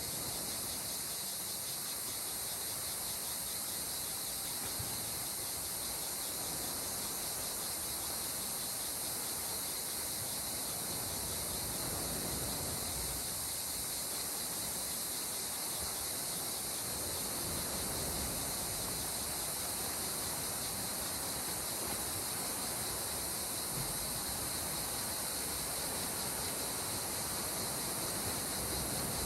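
Gentle sea water washing against the shore, swelling softly now and then, under a steady high-pitched insect chorus.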